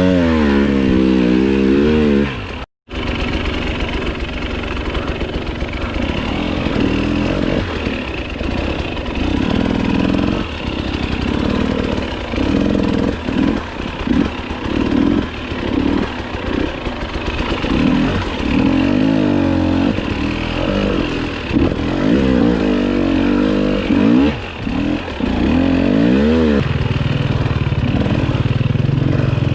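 Enduro dirt bike engine being ridden along a trail, revving up and falling back over and over as the throttle is worked. The sound cuts out completely for a moment about three seconds in.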